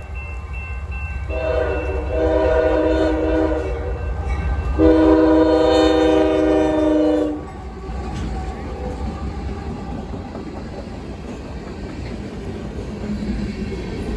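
CSX freight locomotive's air horn sounding two long blasts, the second louder, followed by the steady rumble and wheel noise of the manifest freight train passing.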